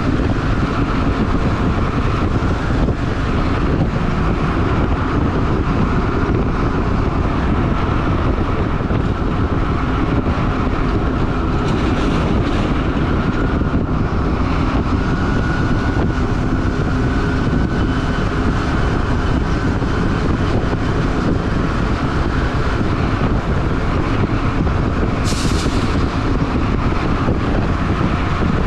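Stewart & Stevenson M1078 military truck driving: steady diesel engine and road rumble, with a brief sharp high-pitched sound about 25 seconds in.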